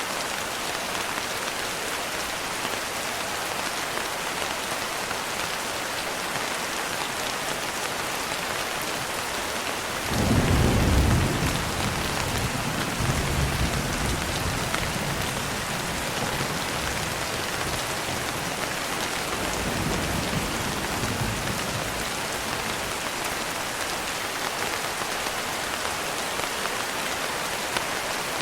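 Steady rain pattering on a window, with a roll of thunder: a sudden loud low rumble about a third of the way in that rolls on for several seconds, then a fainter rumble a little later.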